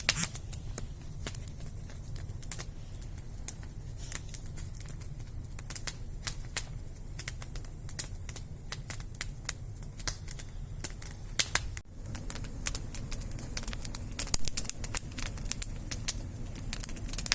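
Wood fire crackling: quick irregular pops and snaps over a steady low rumble, coming denser after about twelve seconds.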